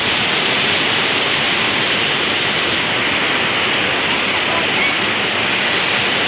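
Heavy downpour on clay tile roofs and foliage, with water running off the roof edges: a loud, steady hiss.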